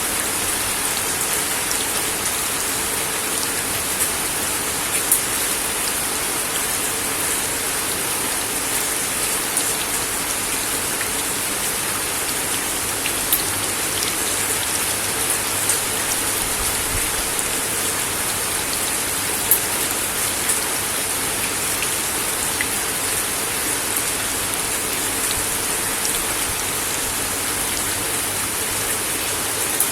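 Steady rain falling on a wooden deck, a constant hiss with scattered sharper drop hits.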